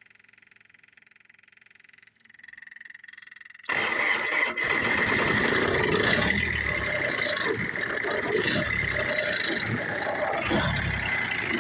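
John Deere F935 mower's diesel engine being cranked on a cold start after repeated failed tries: a few quiet seconds, then the starter and engine come in suddenly, loud and uneven.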